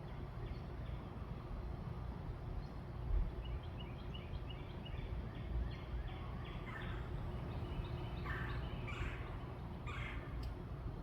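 Birds calling over a steady low outdoor rumble: a quick run of short high notes, then several louder, harsher calls, each under a second long.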